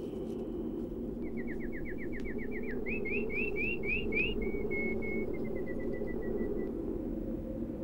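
A songbird sings one phrase: a fast run of about ten falling notes, then six quick rising notes, a short held whistle and a fading string of short notes, over a steady low rumble.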